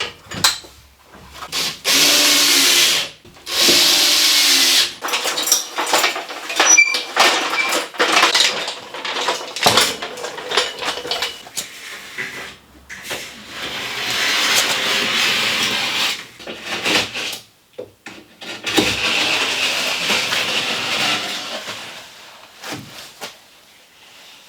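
A handheld power drill runs in short bursts, with knocks, clatter and longer rasping stretches of building work between them.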